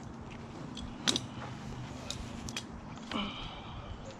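Faint clinks and clicks, the sharpest about a second in, over a low steady engine hum.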